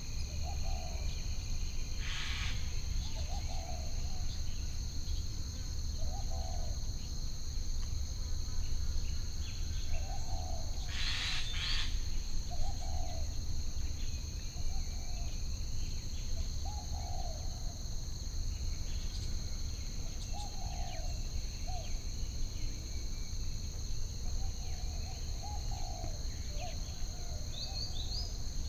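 Nature ambience: a continuous high insect trill like crickets, with short low bird calls repeating every second or two and a few brief higher chirps, over a steady low rumble.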